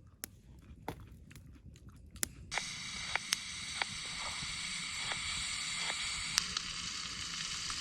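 Food sizzling in a hot pan, starting suddenly about two and a half seconds in as a steady hiss with crackling pops; before that, only faint clicks.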